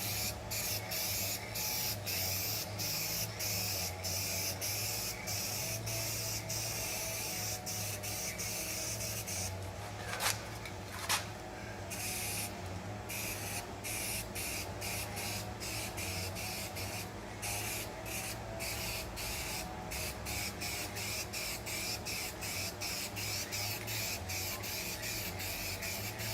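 Aerosol spray-paint can hissing in many short back-to-back bursts as a final coat of paint goes onto a primed fiberglass repair, over a steady low hum.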